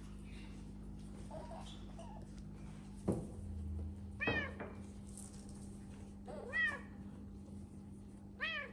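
A domestic cat meowing three times, short calls that rise and fall in pitch, about two seconds apart. A single knock comes just before the first meow.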